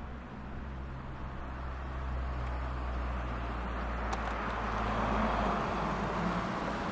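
A car passing by: its tyre and engine noise grows over the first couple of seconds, is loudest about five seconds in, then begins to fade. A steady low hum continues underneath.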